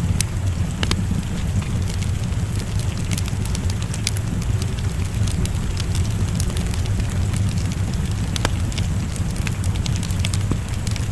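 Wood fire crackling in a fireplace, with scattered sharp pops over a steady low rumble, mixed with a soft even hiss of rain.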